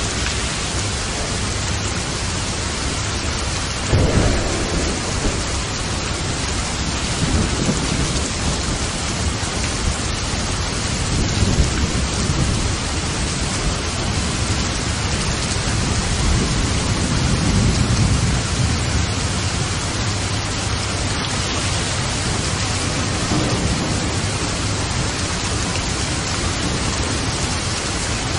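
Steady heavy rain with thunder rumbling several times, the first peal starting sharply about four seconds in and a longer rumble building in the middle.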